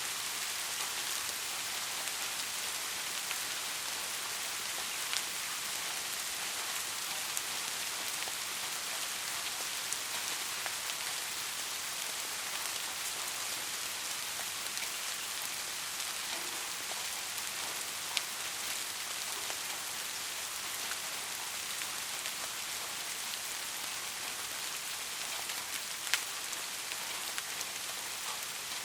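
Steady soft rain falling, an even hiss with scattered sharper drop ticks.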